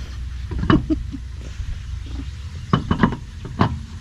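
Scattered clinks and knocks of metal hand tools and brake parts being handled, in two clusters about a second in and about three seconds in, over a low hum that fades out partway through.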